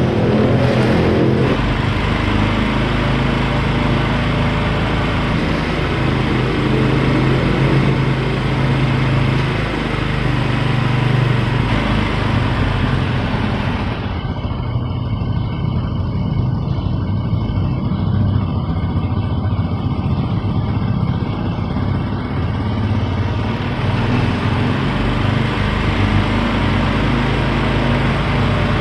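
Motorcycle engine running steadily, a continuous engine hum with no marked revving.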